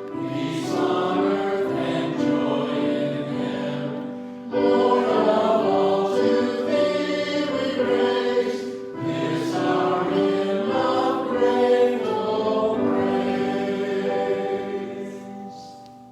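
A choir singing held, sustained phrases, with short breaks between phrases every four to five seconds, fading out near the end.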